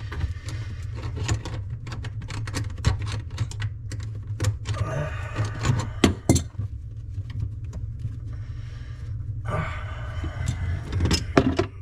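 Irregular metal clicks, taps and knocks of wrenches working on plumbing fittings under a sink, over a steady low hum.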